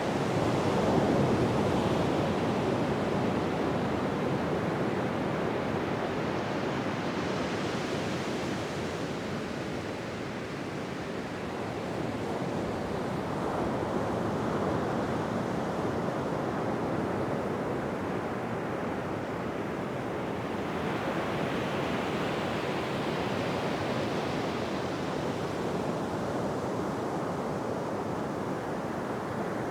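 Ocean surf on a beach: waves breaking and washing in as a continuous rushing noise. It swells and eases slowly, with the strongest surge about a second in.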